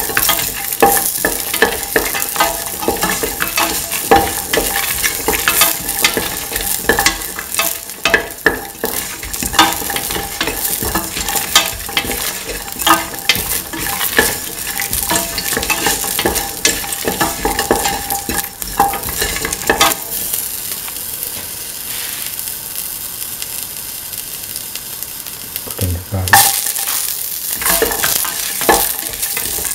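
Shallots, fennel seeds and chillies sizzling in oil in a steel pan while a utensil stirs them, with frequent clicks and scrapes against the metal. The stirring eases off about two-thirds of the way through, leaving mostly the sizzle, then clatters again near the end.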